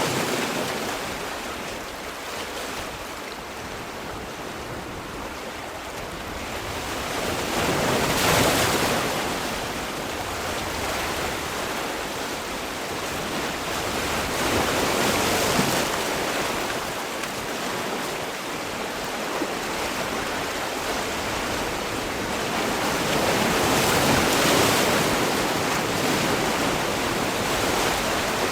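Sea waves breaking and washing on the shore, a steady rush that swells with a wave about every seven to nine seconds.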